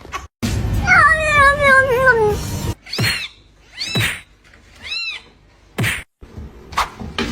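A cat meowing: one long, drawn-out meow falling in pitch, then three short meows about a second apart.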